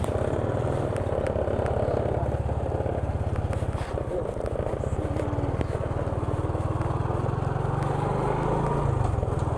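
Motorcycle engine running steadily with a low, rapidly pulsing rumble, its note shifting briefly near the end.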